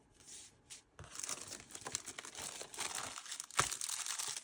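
Scrapbook paper and its packaging being handled, with a steady crinkling and rustling that starts about a second in. There is one sharp tap about three and a half seconds in.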